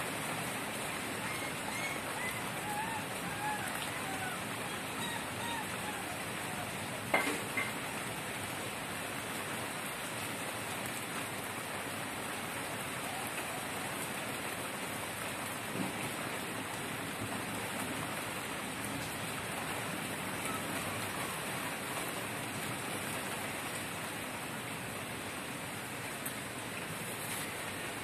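Steady rain falling, an even hiss of drops. A sharp tap about seven seconds in and a fainter one near sixteen seconds break through it.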